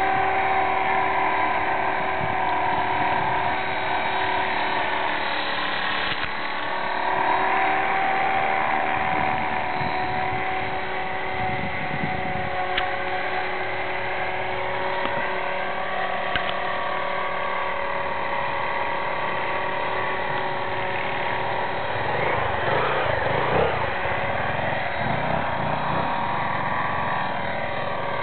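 Belt-CP electric RC helicopter hovering: the steady whine of its motor and rotors, several held tones that drift slightly up and down in pitch as the throttle is worked.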